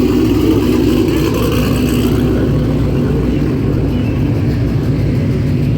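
A car's engine running steadily while driving, a constant low rumble.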